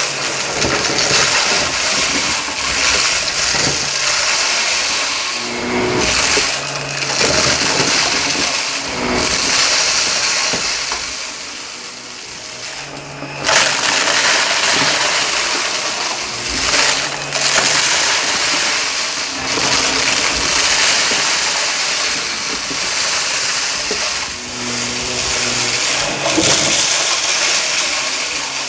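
Shark vacuum cleaner running over carpet in quick strokes, its noise surging and easing, with crackling as grit and debris are sucked up. The noise dips for a moment about twelve seconds in, then comes back sharply.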